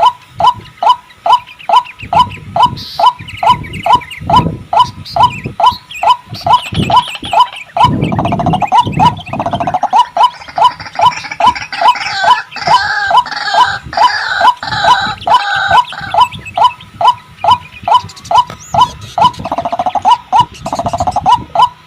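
White-breasted waterhen calling: a loud, rapid series of repeated "ruak" notes, about two to three a second, with a denser stretch of overlapping calls in the middle.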